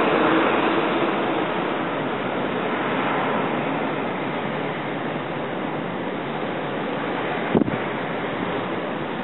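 Steady rush of blizzard wind, partly buffeting the microphone, easing slightly over the first few seconds. A single sharp click about seven and a half seconds in.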